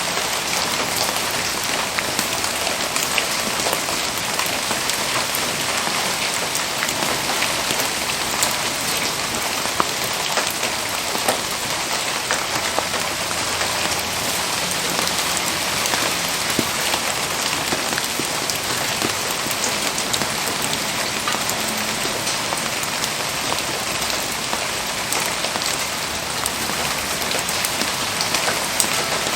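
Steady rain falling, a dense even hiss with many small sharp ticks of drops hitting surfaces.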